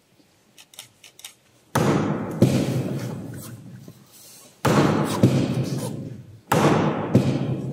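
Three loud thuds, each dying away slowly in the long echo of a large stone church.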